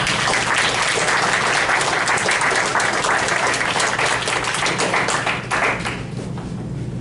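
Audience applauding, a dense patter of many hands clapping that thins out and stops about six seconds in.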